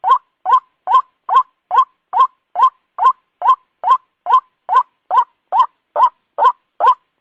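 White-breasted waterhen calling: a short, rising note repeated steadily, a little over two times a second, from a looped bird-lure recording.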